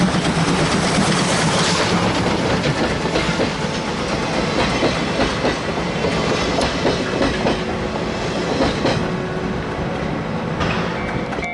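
Steam locomotive C-108 and its train running past, wheels clacking over the rail joints amid loud running noise.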